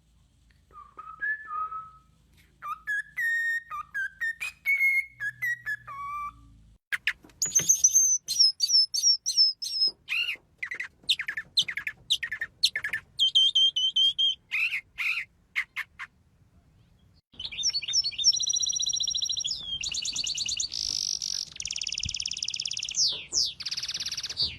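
Birds singing a varied song: lower whistled phrases at first, then quick high chirping notes, and after a short pause, buzzy rattling trills near the end.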